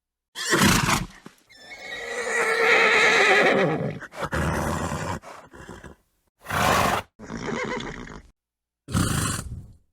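Horses neighing and snorting in a string of separate short recordings with dead silence between them: a short blow, then a long whinny of about two and a half seconds that falls in pitch near its end, then four shorter calls and snorts.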